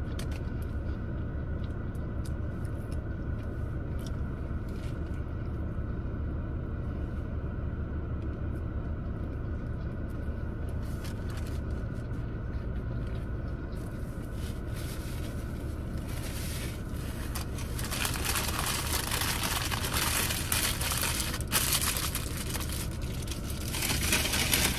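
Close-miked chewing and crunching on a crispy chicken sandwich, irregular and getting louder in the second half, over a steady low rumble.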